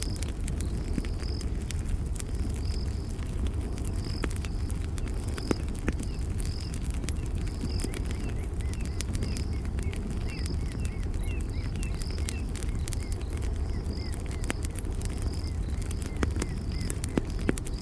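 Campfire burning with a low steady rumble and many sharp crackles and pops, while a cricket chirps in a steady high rhythm. From about eight seconds in, faint little rising-and-falling chirps join in for several seconds.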